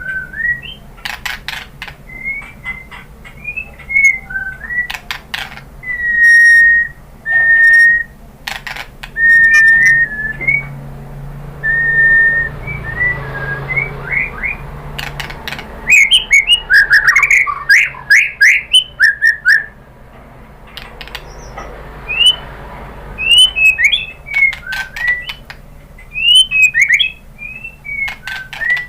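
White-rumped shama singing: clear whistled notes, some held steady and some sliding, mixed with sharp clicks, with a dense run of quick notes about halfway through.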